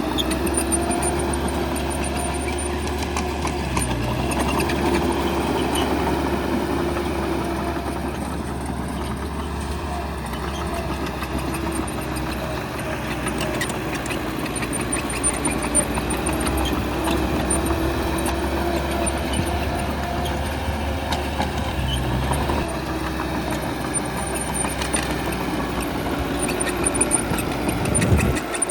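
Bulldozer's diesel engine running steadily under work, a deep rumble whose pitch rises and falls slightly.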